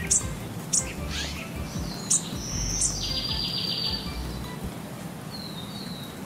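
Birds chirping: several short, high chirps, a buzzy trill about three seconds in, and two short whistled calls near the end.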